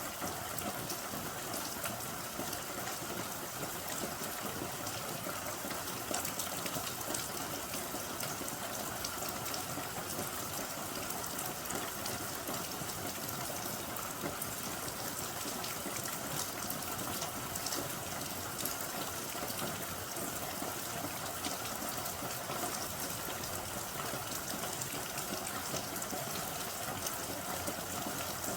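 Steady rain falling, a continuous hiss with a dense patter of individual drops.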